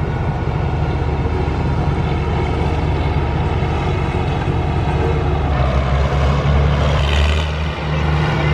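Tractor engine running under power with a steady low drone; about five and a half seconds in its note shifts and grows louder, then drops briefly near the end.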